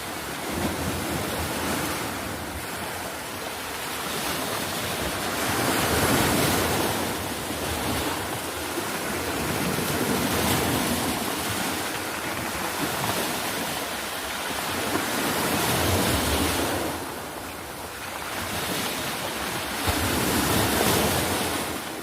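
Ocean surf breaking on a beach: a steady rush of waves that swells and eases about every four to five seconds.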